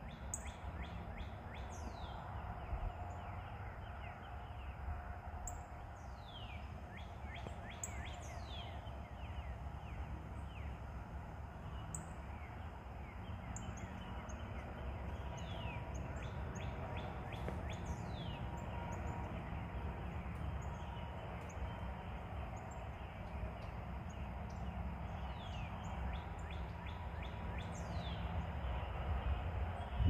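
Birds calling: thin whistled notes that sweep down in pitch, repeated every few seconds, with quick runs of chirps, over a steady low rumble.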